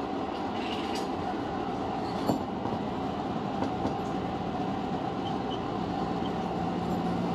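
Running noise inside the leading car of a Tobu 50000 series electric train pulling away from a station, a steady rumble with one sharp click from the wheels about two seconds in.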